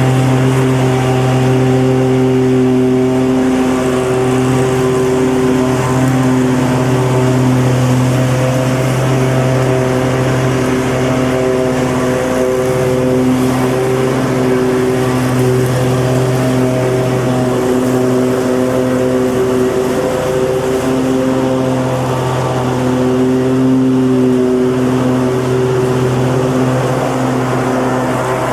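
Lawn mower engine running steadily at one constant speed, a loud, even drone.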